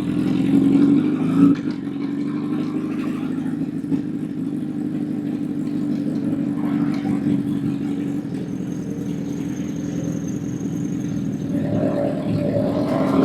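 Honda CBR1000 motorcycle's inline-four engine running at a steady pitch, heard through the camera's mic, with a brief knock about a second and a half in; near the end the pitch rises as it revs up.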